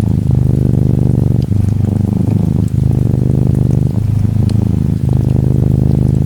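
Norwegian Forest Cat kitten purring steadily, the purr swelling and dipping in breaths of about a second each, with faint rain behind it.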